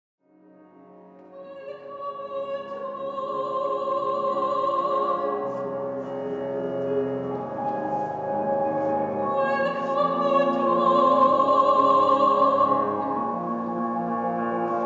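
Classical operatic singing with vibrato over instrumental accompaniment. It rises from silence in the first couple of seconds into long held notes.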